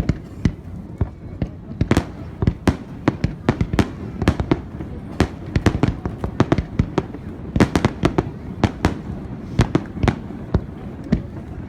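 Fireworks display: sharp bangs in quick, irregular succession, several a second, over a steady low rumble.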